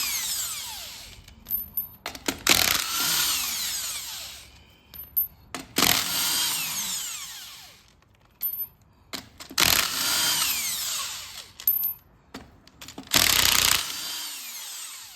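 A cordless impact wrench spinning bolts out of the axle shaft flange on a Sterling 10.5 rear axle. It runs in four bursts a few seconds apart, each winding down in pitch as the bolt comes free, with small clicks between bursts.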